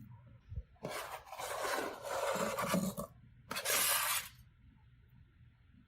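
Chopped onion being scraped off a cutting board into a pot of chicken cooking in hot oil: a longer scrape of a couple of seconds, then a shorter, sharper scrape.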